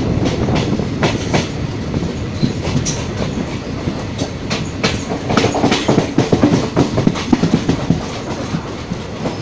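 Indian Railways passenger coach running along a station platform, heard from its open doorway: a steady rumble of wheels and running gear with frequent irregular clicks and clatter over the rail joints, getting louder and busier about halfway through.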